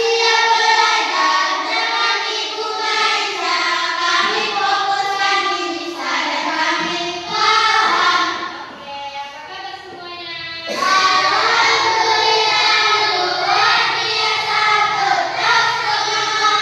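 A group of young children singing together, with a short lull about two-thirds of the way through before the singing picks up again.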